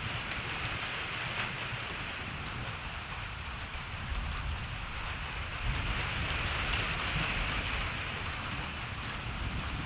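Steady rain falling on a surface, with a low rumble of distant thunder swelling through the middle.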